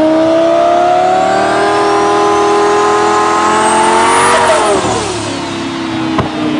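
Twin-turbo Lamborghini Gallardo V10 on a chassis dyno pulling under load, its engine note rising steadily for about four seconds. The note then drops sharply as the throttle is lifted and settles to a lower, steady drone, with a single sharp crack near the end.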